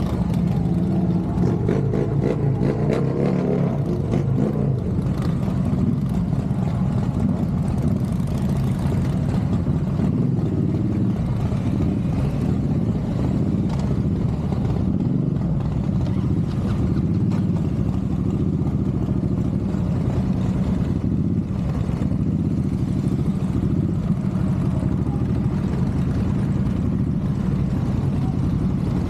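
Motorcycle engine running steadily at an even pitch and load.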